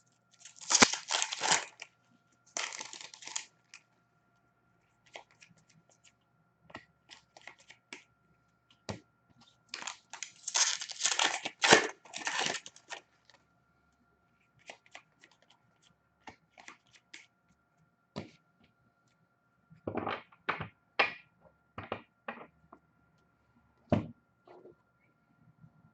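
Hockey card pack wrappers being torn open and crinkled in three bursts, the longest about ten seconds in. Scattered clicks and taps of cards being handled come between them.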